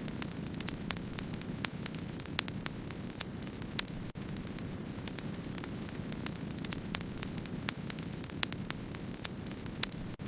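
Wood campfire burning: a steady low rush with frequent sharp crackles and pops at irregular intervals.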